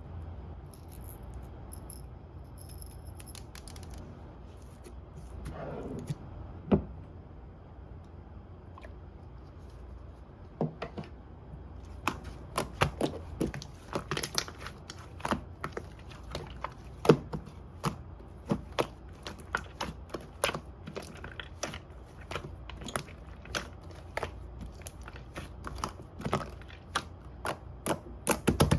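Clay slime being handled, pressed and poked by hand, giving irregular sharp sticky clicks and pops: a few scattered in the first half, then coming thick and fast from about halfway in.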